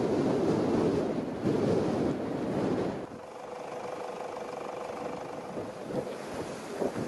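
Wind buffeting the microphone for about three seconds, then dropping to a quieter hiss with a faint steady hum.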